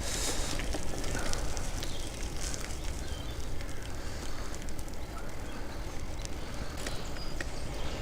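Bicycle rolling along a rough trail: steady tyre noise with scattered small clicks and rattles, over a constant low rumble.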